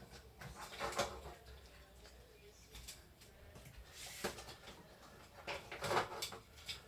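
Faint clicks and rustling of plastic keyboard keys being handled and set aside, with a few louder knocks about a second in, a little after four seconds and around six seconds.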